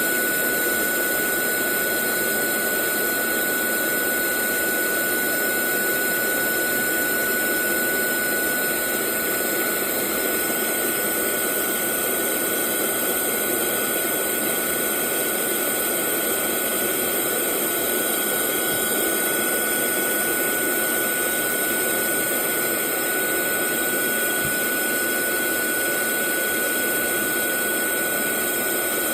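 Hair dryer running continuously: a steady blowing rush with a thin, constant high whine.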